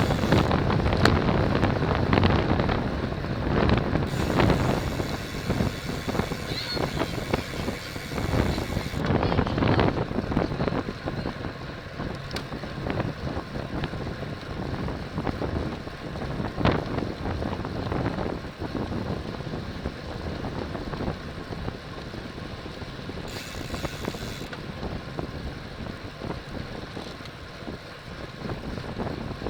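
Wind rushing over the microphone of a camera carried on a racing bicycle at speed: a steady noise, loudest in the first few seconds and easing off after that.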